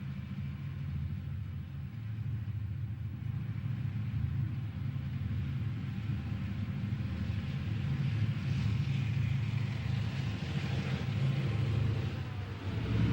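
Diesel locomotive engine rumbling as a train approaches, growing louder, with wheel and rail noise building over the second half.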